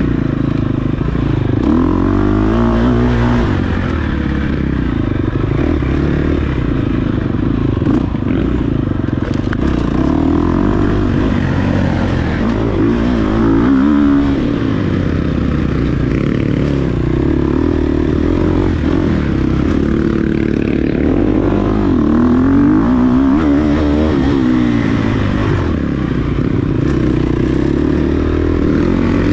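Dirt bike engine revving up and down continuously as it is ridden off-road, its pitch climbing and dropping again and again with gear changes and throttle, with some clattering over the terrain.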